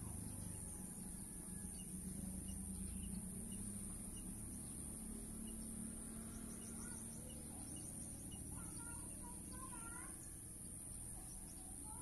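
Faint birds chirping: a few short rising and falling calls, clustered in the second half, over a steady high-pitched hiss.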